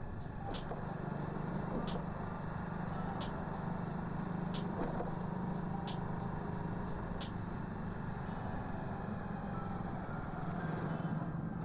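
Motorcycle engine running steadily while riding at low speed, with a light high tick repeating every second or so.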